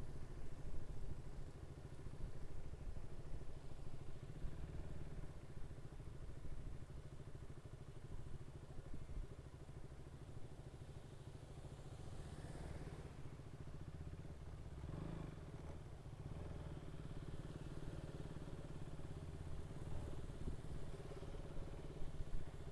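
Motorcycle riding along at a steady speed: a low, even engine and road rumble with a faint hiss of air. Around twelve to fifteen seconds in there is a brief louder swell of noise.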